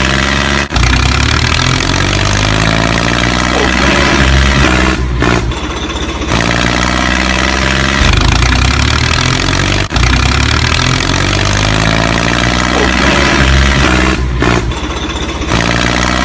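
Tractor engine running steadily, a recording that repeats about every nine seconds.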